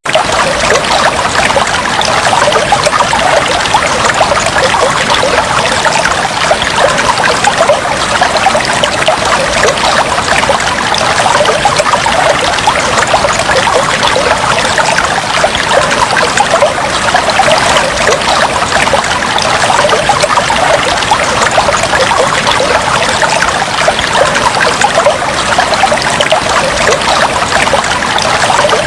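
Fish tank water trickling and bubbling steadily, a dense patter of small pops and splashes.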